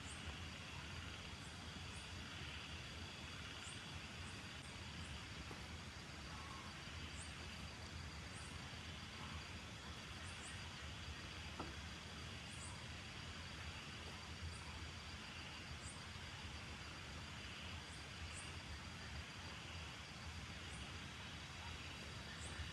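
Steady hiss of rain in the woods, with a constant high insect buzz and brief high chirps every second or two. One faint click about halfway through.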